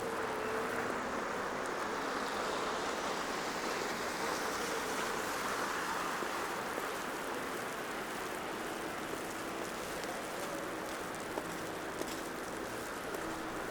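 Steady downtown street ambience in snow: a continuous wash of traffic with tyres hissing on wet, snowy roads, under a faint engine hum, and two light clicks near the end.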